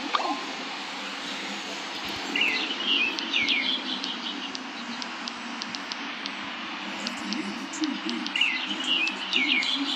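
A bird singing the same short chirping phrase twice, about six seconds apart, over a steady background hiss.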